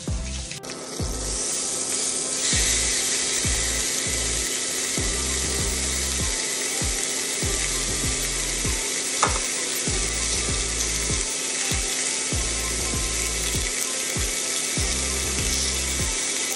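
Salmon steak sizzling in a hot ridged grill pan: a steady frying hiss that starts about half a second in and grows louder a couple of seconds later, with small crackles and pops through it.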